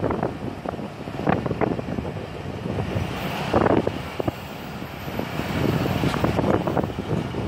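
Strong wind buffeting the microphone in gusts, with a sharper gust about three and a half seconds in.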